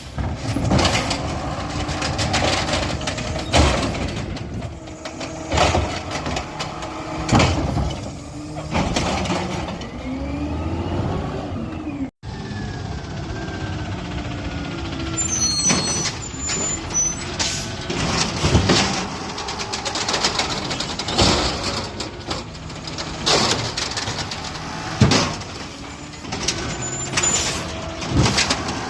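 Garbage trucks at work: diesel engines running and revving up and down, with air-brake hisses and many short bangs and clanks. The sound breaks off for an instant about twelve seconds in and picks up again on another truck.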